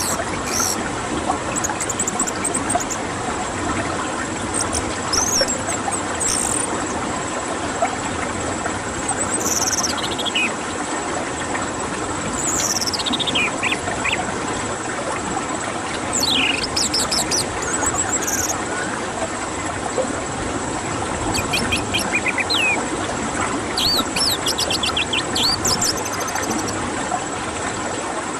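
Orange-headed thrush (anis merah) singing: scattered falling whistles and quick trills, over a steady background hiss and a thin high tone.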